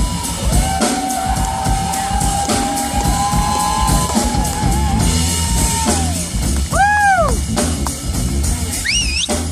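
Live band playing over a steady drum kit beat. A lead line holds long notes with wavering bends, swoops up and down in pitch about seven seconds in, and slides upward near the end.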